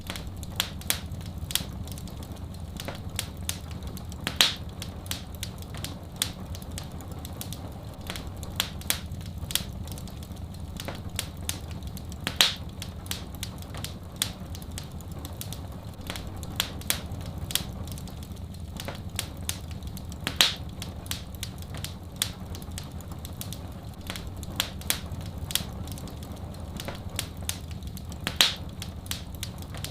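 Wood fire crackling: frequent small snaps with a louder pop about every eight seconds, over a steady low rush.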